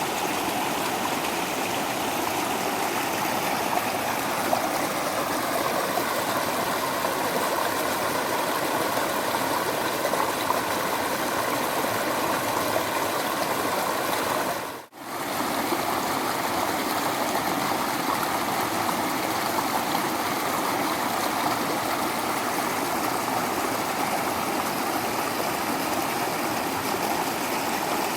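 Waterfall water rushing and splashing in a steady, even rush. About halfway through it dips briefly almost to silence and comes straight back.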